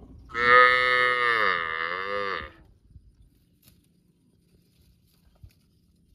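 A cow mooing: one loud call about two seconds long, its pitch dipping and rising again near the end.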